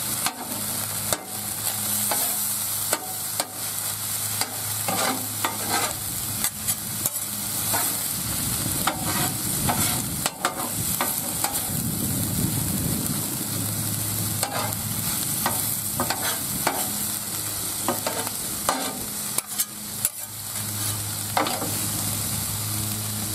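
Ground beef and black beans sizzling steadily on a Blackstone flat-top steel griddle, with metal spatulas scraping and clacking against the griddle at irregular intervals as the mixture is stirred and chopped.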